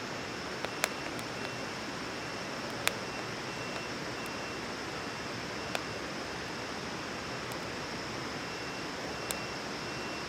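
Wood campfire burning: a steady hiss with a few sharp pops and crackles, the loudest about three seconds in.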